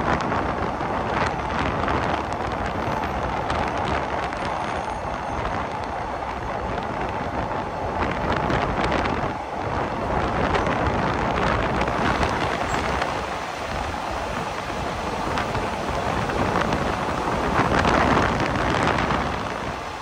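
Passenger train running along the track, heard from its open window: a steady rush of wind and wheel-on-rail noise, swelling briefly near the start and again near the end.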